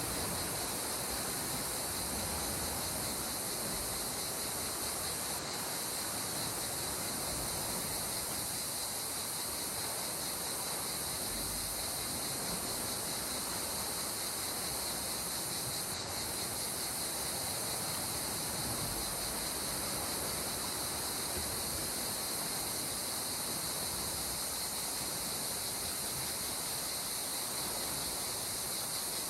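Calm sea water making a steady, even wash with no distinct wave breaks, under a constant high-pitched chirring of insects.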